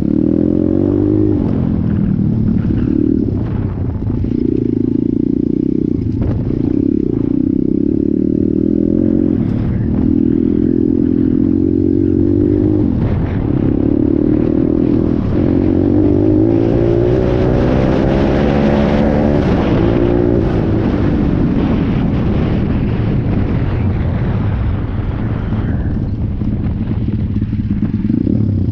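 Stomp Dirty S pit bike's 170 cc engine being ridden, revving up and dropping back several times in a row as the throttle is opened and closed, with some rattling and knocking over it.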